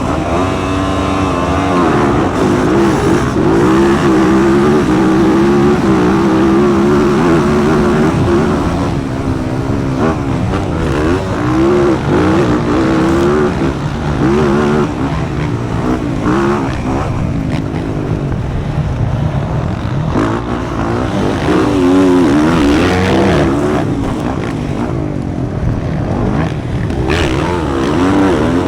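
Motocross dirt bike engine revving hard and backing off again and again as it is ridden around the track, its pitch rising and falling with throttle and gear changes.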